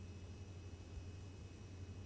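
Faint steady low hum with thin, steady high electronic tones: the quiet line of a light aircraft's cockpit intercom between transmissions.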